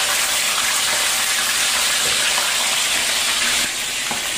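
Fish pieces sizzling steadily in hot oil in a stainless steel frying pan, a continuous frying hiss that eases slightly near the end.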